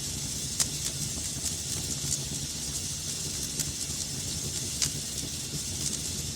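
Wood fire burning in a fireplace: a steady hiss with scattered sharp crackles and pops, a few louder snaps standing out.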